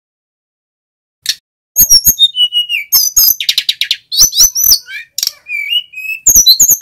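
Male sikatan gunung (mountain flycatcher) singing loudly: after a second's pause, a fast, varied run of sharp clicking notes, short whistled glides, a quick trill and a few longer held whistles.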